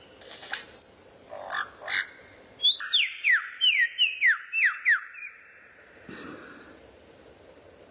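A songbird calling: a few sharp notes, then a run of about seven quick whistles, each sliding downward in pitch, a little over two a second, stopping about five seconds in.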